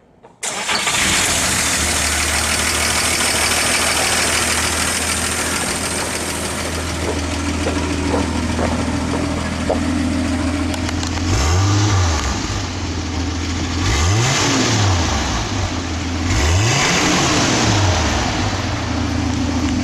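The 1954 Kaiser Darrin's 161 cu in inline-six engine idling steadily, heard at the tailpipe, then revved three times, each rev rising and falling in pitch.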